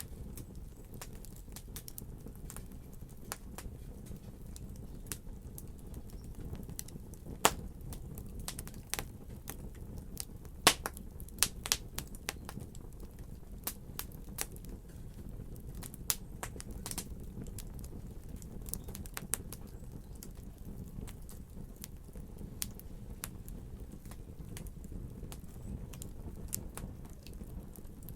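Wood fire crackling in a fireplace: irregular sharp pops and snaps over a steady low rumble, with a few louder pops around a third of the way in.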